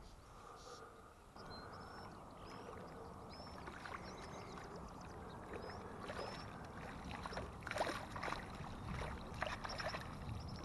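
Water lapping and splashing around a boat, with a few clicks and knocks that grow louder in the second half.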